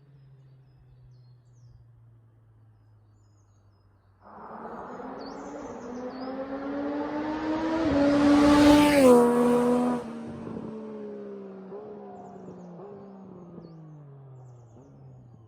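Triumph Street Triple RS 765's inline three-cylinder engine passing by, through its standard exhaust with both catalytic converters removed. It comes in suddenly about four seconds in and climbs in pitch and loudness under acceleration. Near the middle it drops in pitch as it passes, falls off sharply a second later and fades away.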